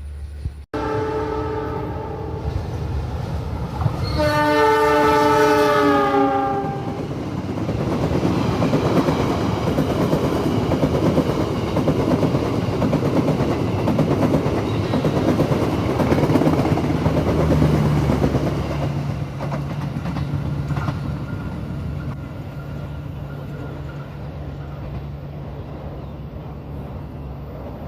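A train horn sounds twice: a short chord blast, then a longer, louder one that sags slightly in pitch at its end. A train then passes, its wheels rattling over the rail joints, and the noise eases off near the end.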